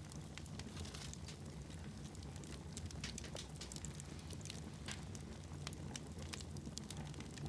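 Fire in a fireplace crackling, with frequent sharp pops and snaps, over a low steady rumble.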